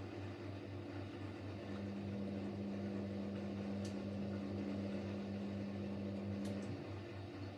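Siemens Siwamat Plus 574 front-loading washing machine in an intermediate spin between rinses. A low hum pulses rapidly throughout; a higher steady tone joins about two seconds in and stops near the end, with a couple of faint ticks.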